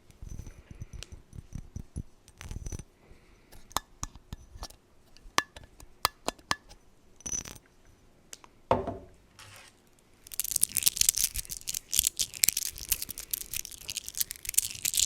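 ASMR trigger sounds made with small objects close to the microphone: scattered light taps and clicks, then from about ten seconds in a dense, rapid, scratchy crackle that is the loudest part.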